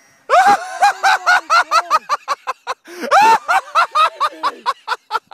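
A person laughing hard in rapid, high-pitched bursts, several a second, with a longer cackle about three seconds in.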